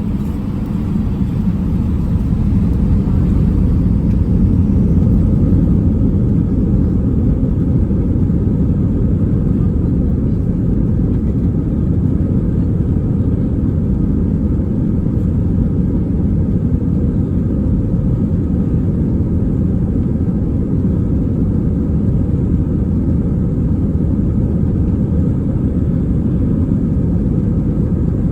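JetBlue Airbus A320's IAE V2500 turbofan engines at takeoff thrust: a deep, steady jet rumble that builds over the first few seconds and then holds.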